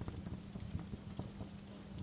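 Wood fire crackling in a fireplace, with irregular sharp pops and snaps over a low steady hum.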